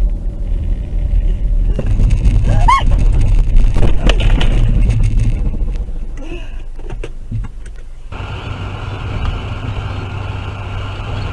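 Car engine and road rumble, loudest through the first half. A brief rising high tone comes just before three seconds in, and the sound changes abruptly to a steadier, quieter hum about eight seconds in.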